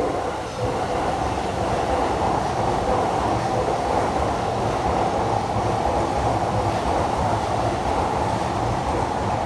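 A train running past, a steady rumble that swells about half a second in and holds.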